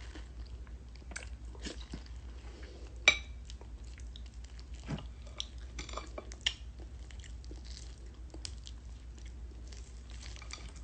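A person chewing and biting into a juicy mango close to the microphone, with scattered wet mouth clicks and smacks; one sharper click about three seconds in.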